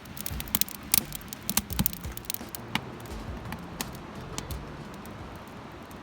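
Freshly lit campfire of newspaper and dry wood crackling, with sharp, irregular pops that come thickly at first and thin out in the second half.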